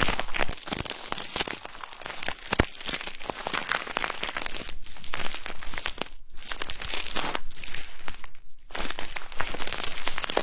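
Close-up ASMR trigger sounds: a prop is rubbed and brushed against the microphone, giving a dense crinkly rustling with scattered small clicks. It drops out briefly twice, about six seconds in and again near the end.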